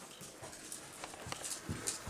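Horse trotting: soft, dull hoofbeats that pick up to about two or three a second in the second half, with crisp scuffs of hooves in the footing.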